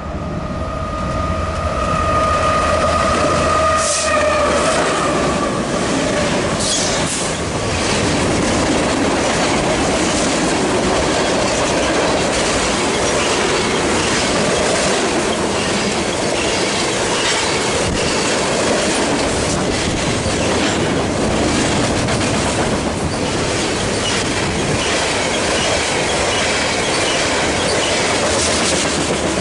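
Freight train passing close by: cars rolling along the rails in a steady, loud clatter with sharp clicks over the rail joints. A steady high-pitched squeal from the wheels fades out about four seconds in.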